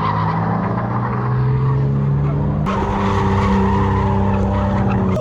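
A car engine held at high revs while its tyres spin and squeal in a donut or burnout. The engine note holds steady, and the sound shifts abruptly about halfway through.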